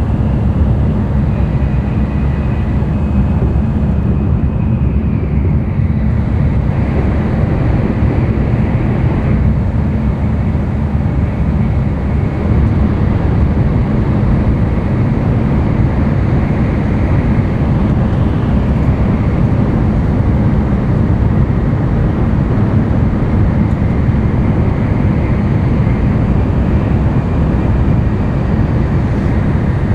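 Running noise inside the cabin of an N700-series Tokaido Shinkansen train travelling on the line: a steady, loud low rumble of wheels and track with air rushing past the body.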